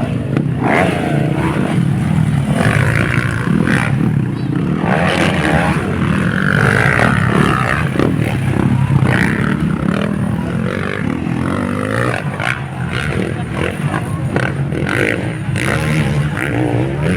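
Motocross dirt bikes racing, their engines revving up and down.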